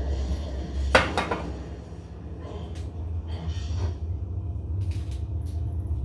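Kitchen cookware and utensils clattering: a loud knock with a quick second strike about a second in, then lighter clinks and taps, over a steady low hum.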